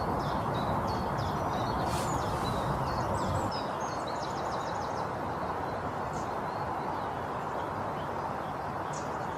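Small birds chirping and trilling over a steady outdoor background hum, the birdsong busiest in the first three or four seconds and sparse after. A single sharp click about two seconds in.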